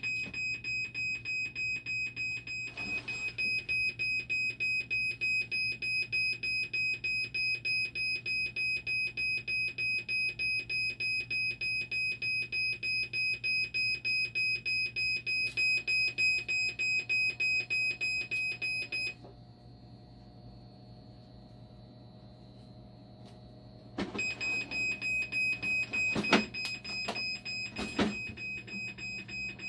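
Dialysis machine alarm beeping in a rapid, even pulse on one high tone, the warning for the fault in its acid and bicarbonate pumps. The beeping stops for about five seconds past the middle, leaving a low hum, then starts again, with two sharp clicks near the end.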